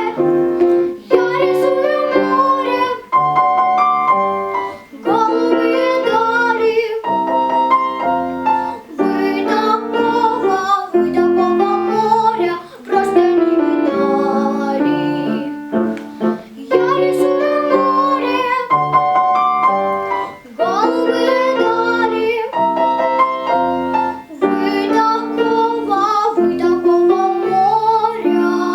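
A young girl singing a children's song in Russian over piano accompaniment, in phrases of a few seconds with short breaths between them.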